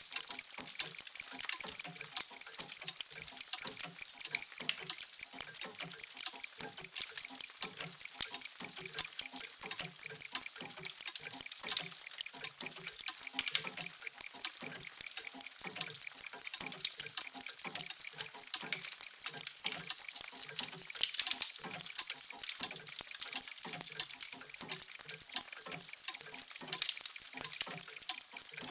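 Many mechanical clocks ticking at once, their ticks overlapping into a dense, steady clatter, with deeper, softer ticks from larger clocks among the sharp high ones.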